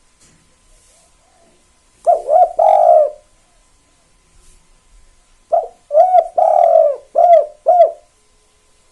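Spotted dove (tekukur) cooing in two phrases of low, hollow notes: a short one about two seconds in, then a longer one ending in two short clipped 'kuk' notes, the 'kuk 2' song type.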